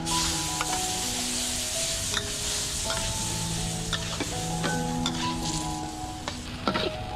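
Diced raw chicken breast dropping into hot coconut milk in a stainless steel wok and sizzling. The sizzle starts suddenly as the chicken goes in, with a metal spatula scraping and clinking against the wok as the chicken is stirred.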